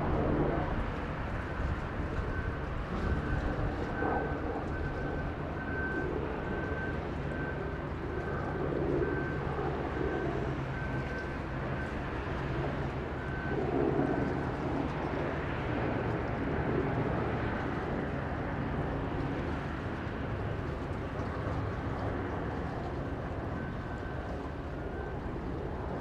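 Boeing 929 Jetfoil's gas turbines and waterjets running at speed: a steady rushing drone with a faint high whine that comes and goes, swelling a little now and then.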